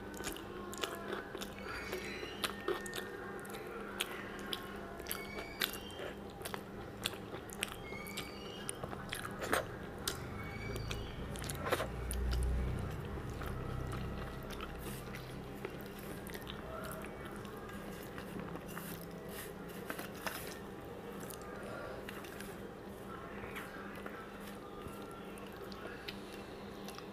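Close-miked chewing and biting with many sharp, crunchy clicks, thickest in the first half, from a mouthful of fried leafy greens eaten by hand. About halfway comes a dull low thump, then softer scattered sounds as fingers work through rice on a steel plate.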